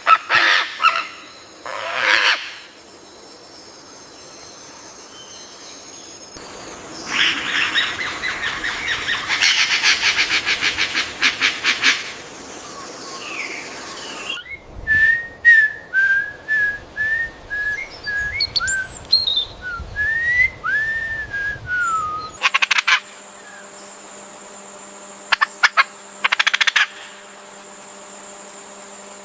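Birds calling in a series of short clips. First comes a fast rattling chatter, then a run of clear whistled notes that rise and fall, then short bursts of chatter.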